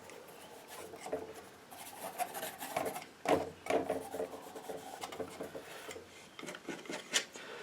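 Painting knife scraping and spreading paint, a series of irregular rasping strokes.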